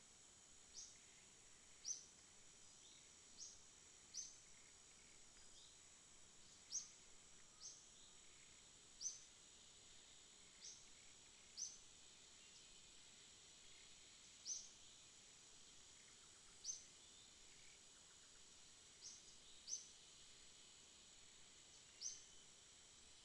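Faint night ambience: a steady high-pitched insect drone, with a short high chirp repeated every second or two at uneven intervals.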